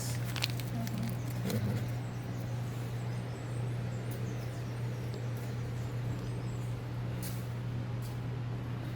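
Steady low hum of supermarket background machinery, with a few short clicks: one just after the start and another about seven seconds in.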